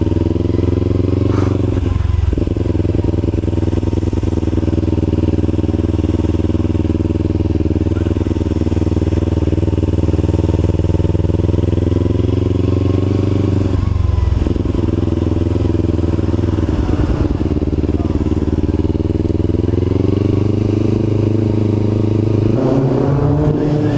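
Kawasaki Ninja 300 parallel-twin engine running under way at steady revs. It drops out briefly twice, about two and fourteen seconds in, and climbs in pitch near the end.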